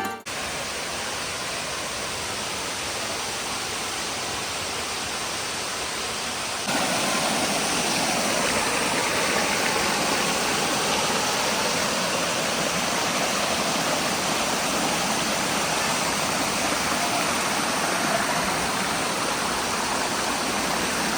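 Waterfall rushing steadily, a dense hiss of falling water. It gets louder about seven seconds in and then holds.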